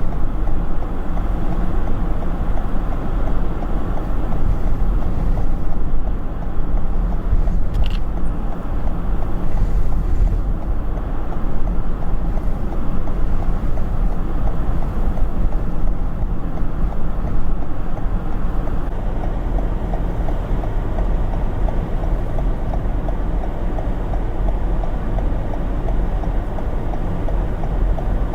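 Steady low rumble of a vehicle on the move, with no distinct events.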